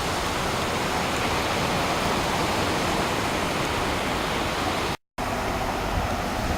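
Surf rushing steadily onto the beach, a continuous even wash of breaking waves. It cuts out for a split second about five seconds in.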